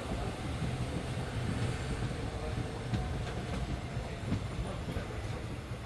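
Passenger train running on the rails, heard from inside the carriage: a steady low rumble with a few faint clicks from the wheels and track.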